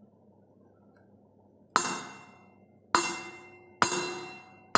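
A metal glass with some water in it struck with a tablespoon, about once a second, three times with a fourth just at the end. Each strike is a sharp clink that rings on in a few steady tones and fades.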